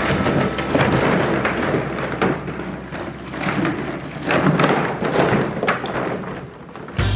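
Plastic ball-pit balls clattering and knocking together in an irregular run of quick taps and thumps as golden retriever puppies move and tumble through them.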